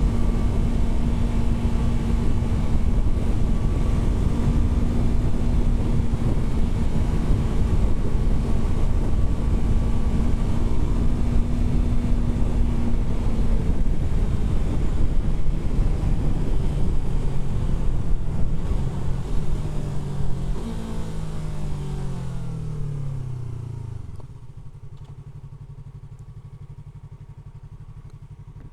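Yamaha R3's 321 cc parallel-twin engine heard from the rider's seat, running at steady revs with wind rush. It then drops in pitch in several steps as the bike slows through the gears, and settles to a steady idle for the last few seconds.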